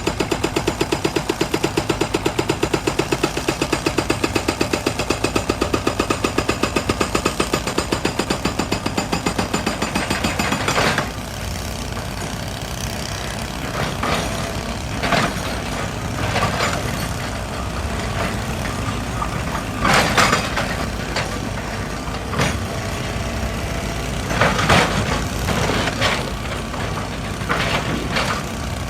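Excavator's hydraulic rock breaker hammering in fast, even blows, stopping abruptly about eleven seconds in. The machine's diesel engine then keeps running, with several short loud bursts of working noise.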